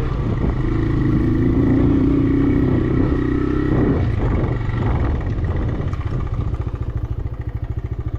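Motorcycle engine running under load during off-road riding, with a stronger, higher engine note for the first few seconds. It then eases off to a slower, pulsing beat.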